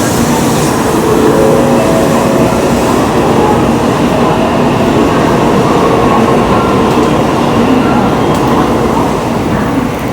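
Tokaido Shinkansen train noise heard on or near the track: a loud, steady rumble and hiss of the train running, with faint steady tones that come and go.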